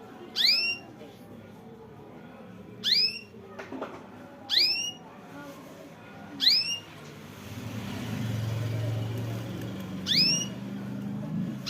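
A caged songbird repeating a short, rising whistled call five times, a second or two apart. A low hum swells underneath in the second half.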